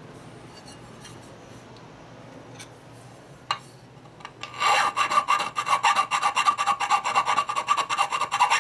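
Hand file rasping on metal in quick short strokes, starting about halfway through after a few light clicks: filing out a bolt hole on a chopper bracket to relieve a slight bind.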